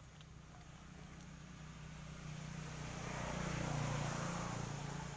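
Engine noise with a steady low hum that swells to a peak a little under four seconds in and then fades, like a motor vehicle passing by.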